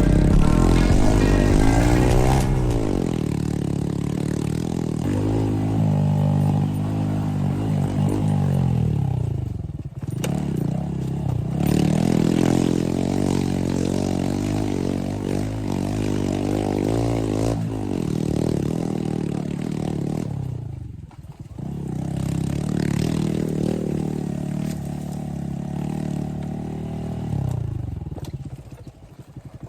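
Dirt bike engine running hard, its revs climbing and dropping again and again in long sweeps.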